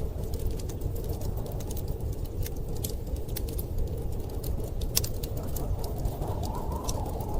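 Wood fire crackling, with irregular sharp pops (one louder pop about five seconds in), over a steady low rumble of storm wind that swells slightly near the end.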